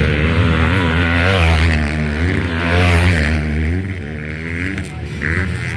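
Motocross bikes' engines revving as they race, the pitch rising and falling again and again with throttle and gear changes.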